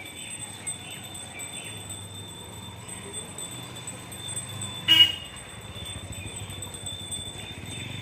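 A single sharp clink with a brief ringing tone about five seconds in, over a faint steady high-pitched whine.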